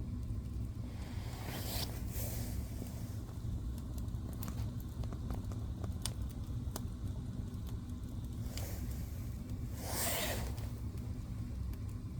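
Fire burning in a fireplace: a steady low rumble of flames with scattered sharp crackles and pops. There are two brief hissing flare-ups, about two seconds in and about ten seconds in.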